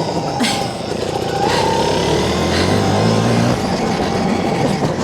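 Stark Varg electric motocross bike being ridden: a high, steady motor whine over rushing wind and track noise.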